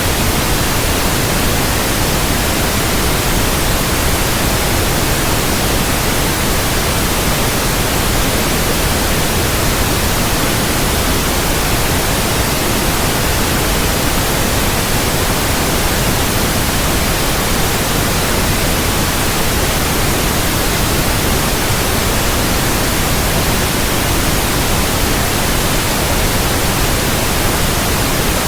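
Steady white noise: an even hiss across all pitches, unchanging, with no tones or breaks.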